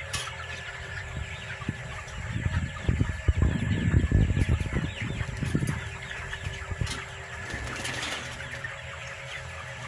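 A large flock of broiler chickens calling and clucking continuously. From about two and a half seconds in, a louder stretch of low rustling and thumping lasts about three seconds.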